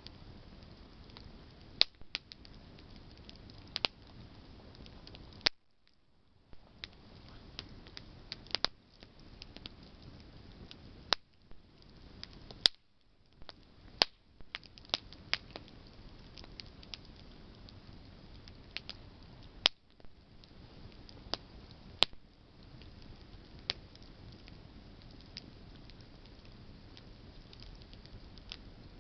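Campfire of burning branches crackling: a steady low hiss of flame with irregular sharp pops and snaps, a handful of them much louder than the rest.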